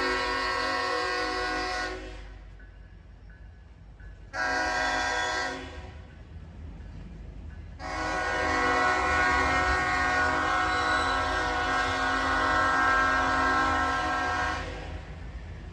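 Locomotive air horn sounding a chord in three blasts: one ending about two seconds in, a short blast, then a long blast of about seven seconds, the close of the long-long-short-long grade-crossing signal. Low train rumble runs underneath.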